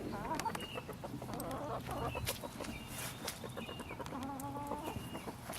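Chickens clucking, a run of short overlapping calls.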